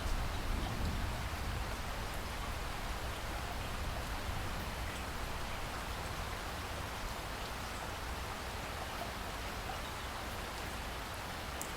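Steady rainfall in a rainforest, an even hiss of rain with scattered drops pattering on leaves.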